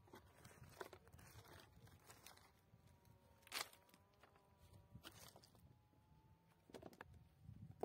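Near silence broken by a few faint, scattered knocks and scrapes, the loudest about three and a half seconds in.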